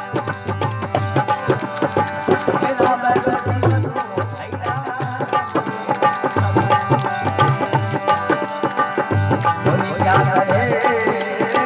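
Rajasthani folk devotional music: hand drums keep a brisk, steady rhythm under a wavering melody line.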